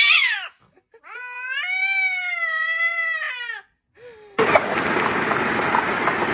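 A domestic cat meowing: a drawn-out meow tails off just after the start, then a long, wavering meow follows about a second in and lasts roughly two and a half seconds. About four seconds in, a loud steady hiss-like noise begins abruptly and runs on.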